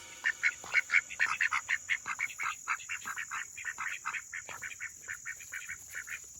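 A duck making a rapid run of short calls, about seven a second, over a faint steady high hiss.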